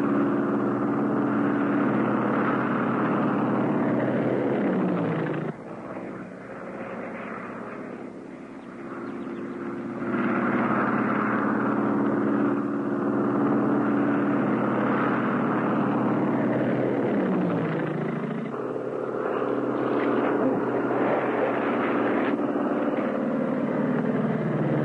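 Propeller aircraft engine droning steadily, its pitch sliding down sharply three times as the plane dives or passes, with a quieter stretch about a quarter of the way through.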